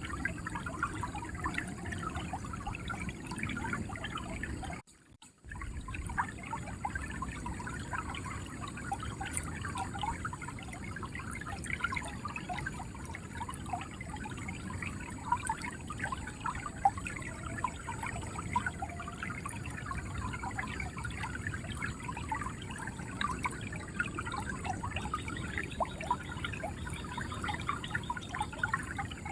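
River water flowing and gurgling over stones, a steady rush with many small bubbling splashes. About five seconds in it cuts out almost completely for half a second, then carries on.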